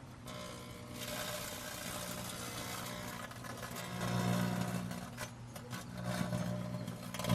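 Microwave oven running with a steady electrical hum that swells about four seconds in and again at the end, over a faint crackle from arcing inside the oven.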